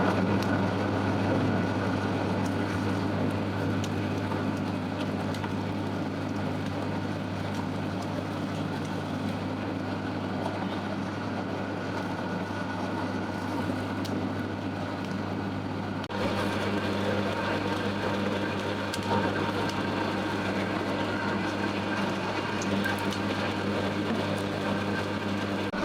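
A motor running steadily with an even hum, shifting slightly about two-thirds of the way through.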